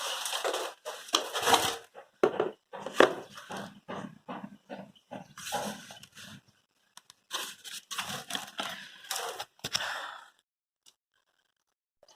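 Irregular rustling, scraping and tearing of packaging as plastic and tape are pulled off a new refrigerator, in short uneven bursts that stop about ten seconds in.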